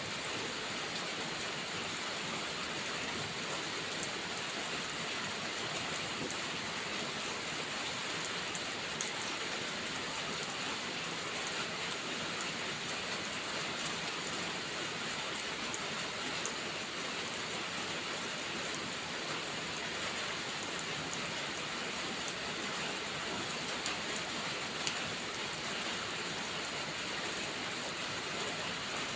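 Steady, even rain, with a few sharper ticks of single drops now and then.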